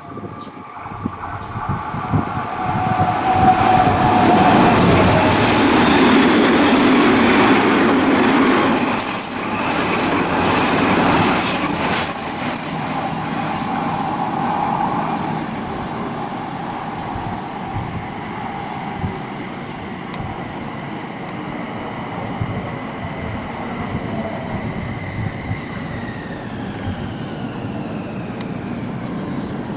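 Odakyu 3000 series and 8000 series electric train, coupled together, running past the platform. Its noise builds from about a second in and is loudest for several seconds, with a brief high wheel squeal, then eases to a steadier, quieter running sound. A falling whine comes near the end.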